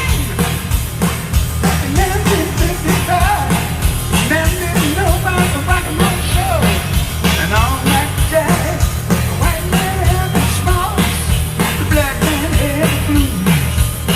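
Loud rock music with a steady, driving drum beat and a voice singing over it.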